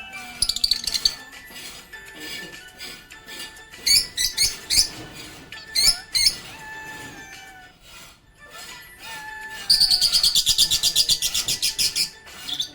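Budgerigars chirping in short sharp bursts, then a loud, rapid chattering trill of about nine pulses a second lasting a couple of seconds near the end, with background music underneath.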